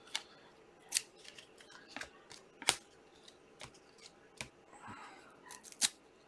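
Trading card packs and cards being handled: a scattered series of sharp clicks and snaps with a brief rustle, from foil packs being opened and cards being flipped.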